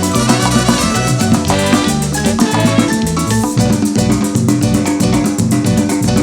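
Live band playing an instrumental Latin dance passage, with guitar, percussion and drum kit keeping a steady beat.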